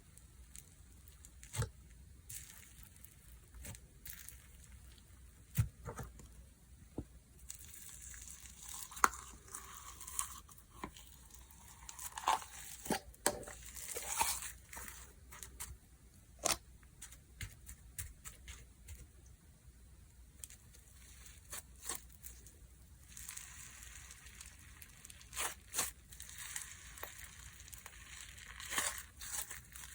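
Hands playing with slime: scattered sharp pops and clicks as air pockets burst, with stretches of crinkly crackling as the slime is pulled and folded, about a quarter of the way in and again from about three quarters of the way through.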